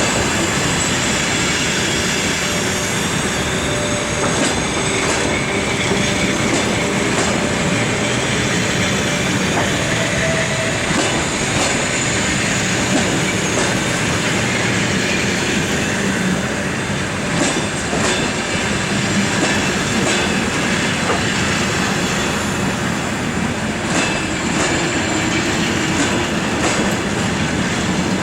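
Departing passenger train rolling past at low speed: wheels clicking over rail joints at irregular intervals over a steady rolling rumble, with some wheel squeal.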